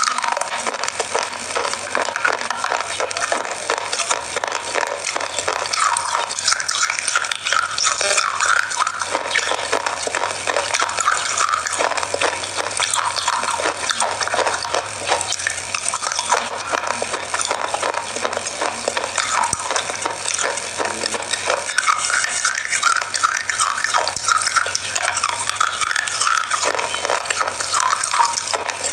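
Close-up chewing of crunchy chocolate biscuit bars: a loud crunch and a dense, steady crackling that goes on without a break.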